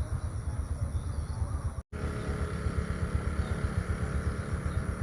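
Outdoor ambience dominated by a low, fluttering wind rumble on the microphone. The audio cuts out completely for a split second just under two seconds in.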